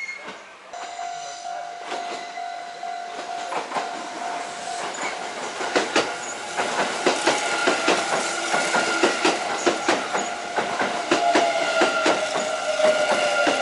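Kintetsu electric train coming past, its wheels clicking over the rail joints in a quickening, louder run from about five seconds in. A long steady horn note sounds in the first few seconds, and a falling whine is heard near the end.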